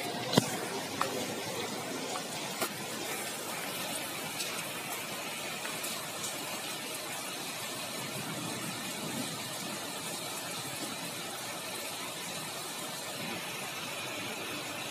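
Steady hiss of heavy rain pouring down, with a few sharp ticks in the first three seconds.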